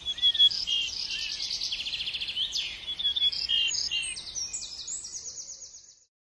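Several songbirds singing together, a dense mix of short chirps and fast trills that fades out near the end.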